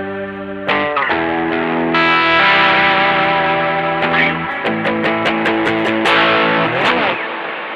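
Gretsch electric guitar played through overdrive pedals and a Joyo American Sound amp-simulator pedal, ringing out sustained chords that change every second or two, with a slide down in pitch near the end.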